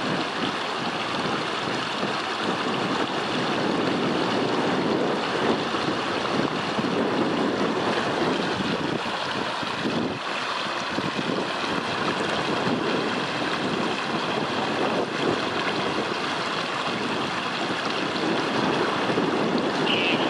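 Steady rumble of a steam-hauled passenger train rolling across the long stone-arch Rockville Bridge, heard from far off, with wind on the microphone.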